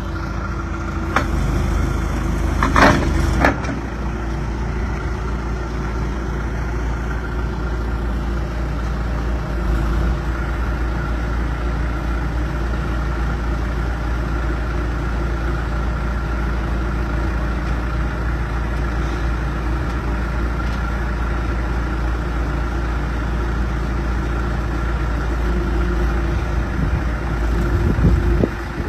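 John Deere 310G backhoe's four-cylinder diesel engine running steadily, with a few sharp knocks about one to three seconds in.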